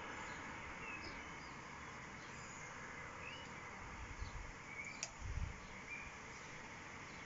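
Birds giving scattered short chirps over a steady outdoor hiss. A little past halfway, a brief low rumble with a few bumps and a single click.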